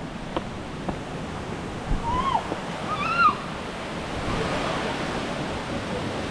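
Steady rushing of waterfall and river water, thickening from about four seconds in. A few light knocks come first, then two short rising-and-falling calls a second apart.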